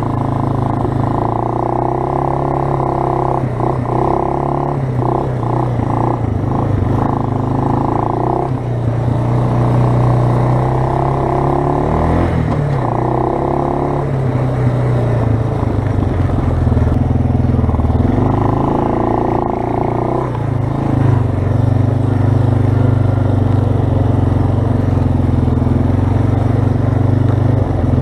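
2006 Suzuki Eiger 400 ATV's fan-cooled single-cylinder four-stroke engine running under way, its note changing a few times as the throttle and gears change.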